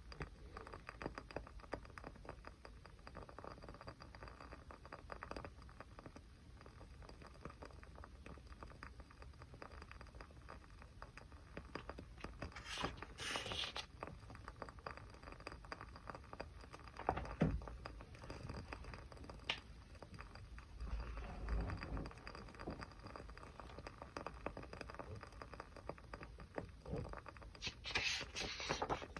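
Small fire crackling: a steady run of fine crackles and snaps, with a brief hissing flare about 13 seconds in and again near the end.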